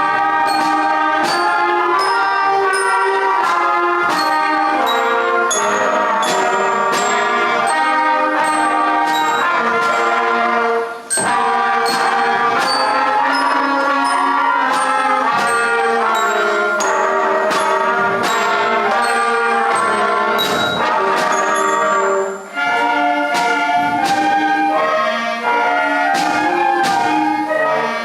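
A student concert band playing a piece, with brass instruments prominent in sustained chords. The playing breaks off briefly twice between phrases.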